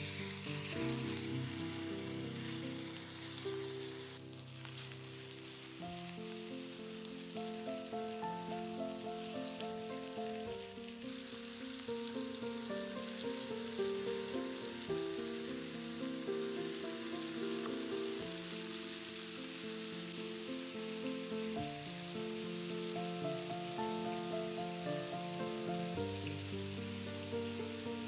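Chicken breasts frying in hot oil in a pan, a steady sizzle, with soft background music playing over it.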